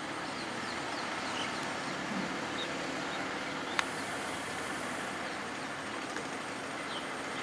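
Steady outdoor background noise with a few short bird chirps and one sharp click a little under four seconds in.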